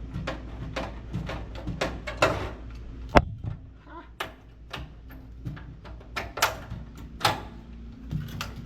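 Irregular clicks, taps and knocks of hand tools and metal electrical parts being handled, with one sharp, loud knock about three seconds in.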